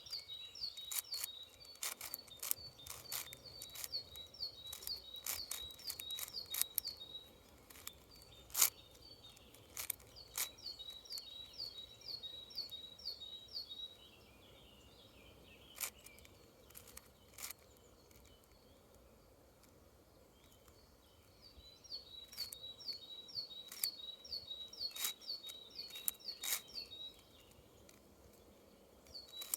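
Plastic clicks of a 6x6 Rubik's cube's layers being turned, in irregular sharp runs with a lull in the middle. Over it, a bird sings long runs of quick, repeated high chirps.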